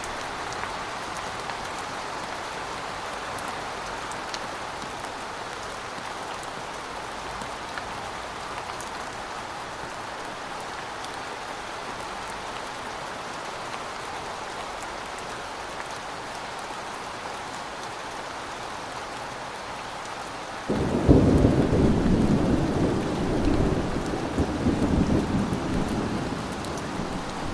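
Thunderstorm: steady rain, then about 21 seconds in a sudden loud clap of thunder that rolls on as a low rumble for several seconds.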